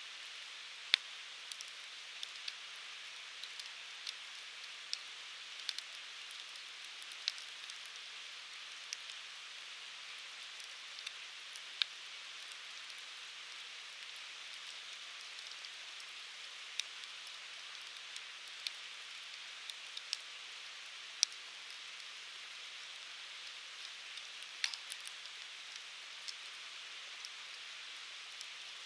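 Firewood burning in a Uniflame Fire Grill fire stand: a steady hiss with irregular sharp crackles and pops of the burning wood.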